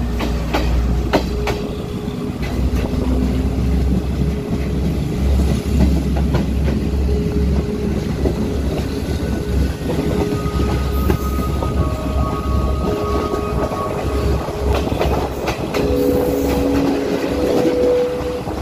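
Diesel passenger train running along the track, heard from outside the carriage: a steady low rumble with the clickety-clack of wheels over rail joints. Faint, steady high tones come in over the second half.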